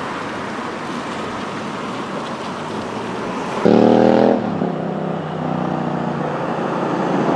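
Motor vehicle noise on a road: a steady rush, then about halfway through a loud steady-pitched engine or horn-like tone starts suddenly, eases after under a second and carries on more quietly.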